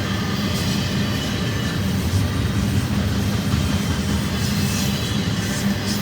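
Intermodal stack train rolling past on the main line: a steady rumble of steel wheels on the rails, with brief high squeaks near the end.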